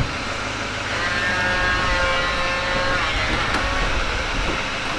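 Steady vehicle noise, with a held high tone lasting about two seconds that dips slightly in pitch as it ends.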